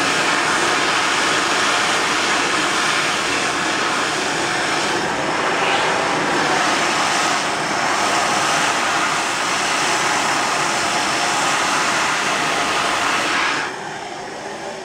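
High-speed jet-type hand dryer blowing with a steady, loud rushing whoosh, then shutting off near the end.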